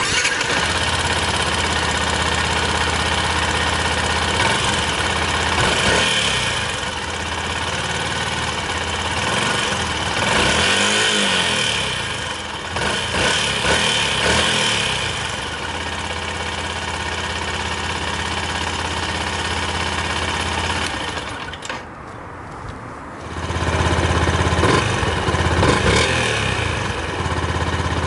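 Yamaha WR125X's 125 cc single-cylinder four-stroke engine, breathing through its stock exhaust, idling with the throttle blipped so the revs rise and fall several times. About two thirds of the way through it drops quieter briefly, then runs louder again near the end.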